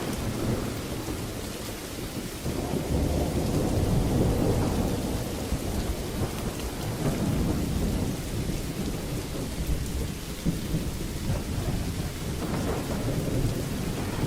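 Steady rain falling, with thunder rumbling low through it. The thunder swells about two and a half seconds in and again around seven seconds.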